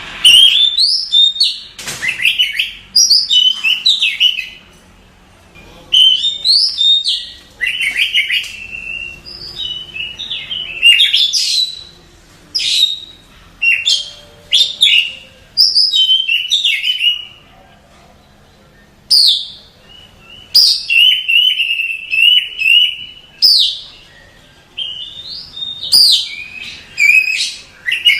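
Oriental magpie-robin (kacer) singing: varied phrases of sharp, quickly sweeping whistles and chirps, with short pauses between phrases.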